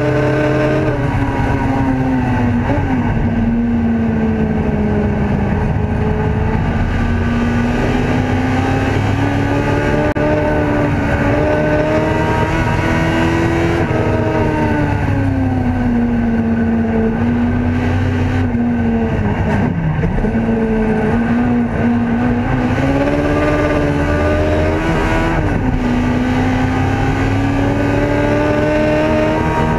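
Ford Escort race car's engine at racing speed, heard from inside the cabin, its revs climbing and then dropping sharply several times as the driver shifts gear and lifts for corners.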